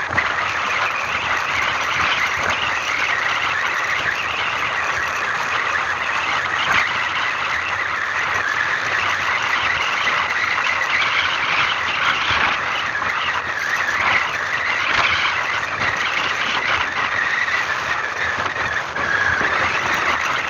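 Vehicle driving along a road: a steady, loud rushing noise of wind and road with no clear engine note.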